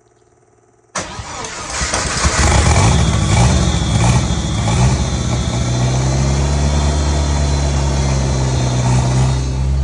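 Turbocharged four-cylinder Jeep engine cold-starting on a squirt of brake cleaner: it cranks and catches abruptly about a second in, runs unevenly for a few seconds, then settles into a steady idle.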